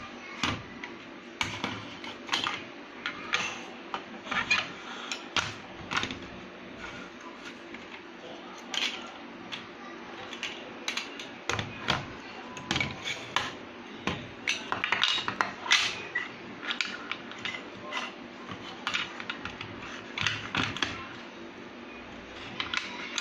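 Plastic Duplo bricks clicking and knocking as pieces are handled and snapped together: many sharp, irregular clicks with no steady rhythm, over a faint steady hum.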